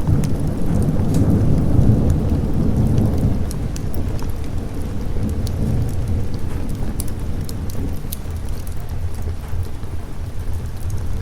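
Rolling thunder rumbling over steady rain, loudest in the first three seconds and then easing off. Scattered sharp crackles run throughout.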